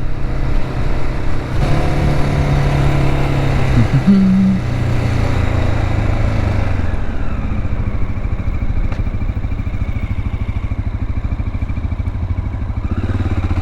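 Dual-sport motorcycle engine running under way, its note stepping up about two seconds in, with a rush of noise that eases off after about seven seconds.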